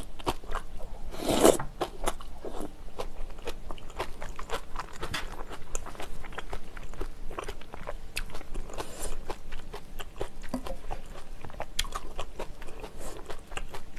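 A person chewing spicy noodle soup and rice close to the microphone: a steady run of wet mouth clicks and crunching. There are two louder rushes of sound, about a second and a half in and again near nine seconds.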